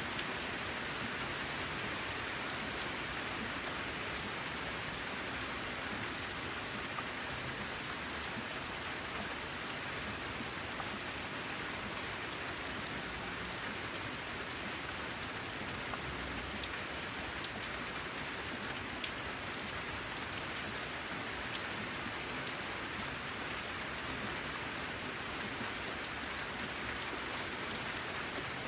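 Steady rain falling on a corrugated zinc roof: a constant hiss with scattered sharper drop ticks.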